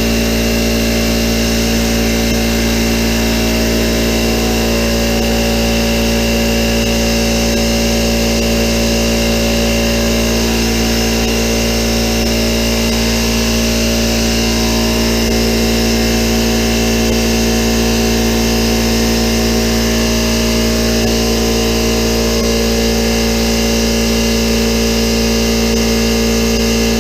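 Central Pneumatic electric air compressor running steadily under load, its motor and piston pump filling the tank at about 40 PSI on the way to its cut-out pressure.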